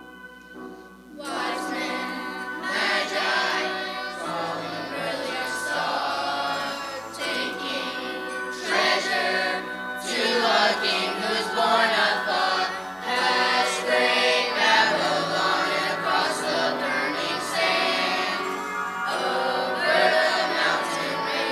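Choir singing a Christmas song over instrumental accompaniment, coming in about a second in after a soft held chord.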